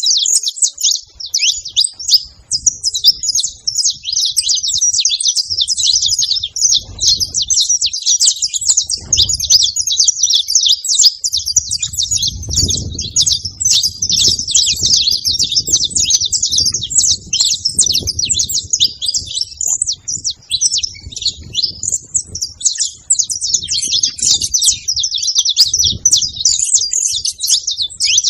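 Several saffron finches chirping and singing at once in a dense, unbroken chorus of high chirps, with a low rumble now and then underneath.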